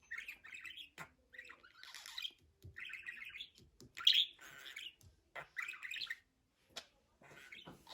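Budgerigar chattering: a string of short, scratchy chirps and warbles in quick bursts with brief pauses between them.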